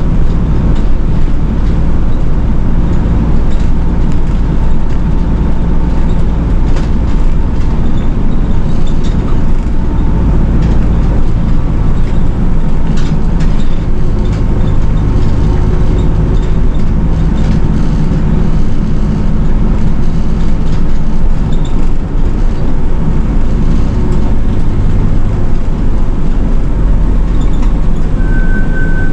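City bus running on the road, heard from inside the cabin: a steady engine note and road noise. A short steady beep sounds near the end.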